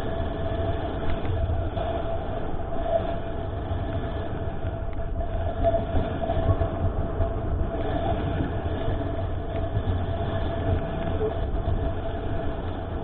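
Mountain bike riding fast over a trail, heard from an on-bike action camera: a steady low rumble of wind and tyres with rattling from the bike, and a steady hum running under it.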